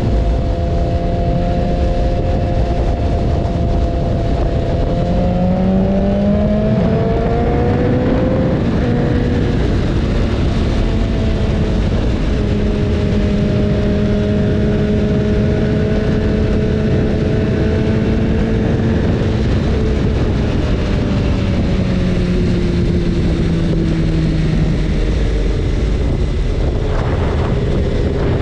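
BMW S1000RR's inline-four engine running under way, with heavy wind rush. Its pitch climbs about five to eight seconds in, holds steady, then sinks slowly about twenty to twenty-five seconds in.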